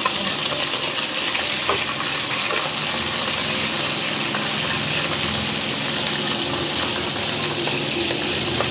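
Duck pieces frying in hot tea oil in a wok: a steady sizzle.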